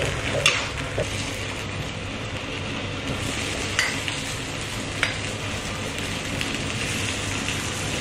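Food sizzling steadily in hot pans, with a few sharp metal clacks: a metal spatula stirring a potato stir-fry in a wok, then metal tongs knocking as cooked chicken pieces are lifted onto a plate.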